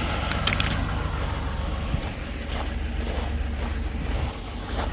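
Heavy diesel engine idling with a steady low rumble, a few light clicks and knocks over it.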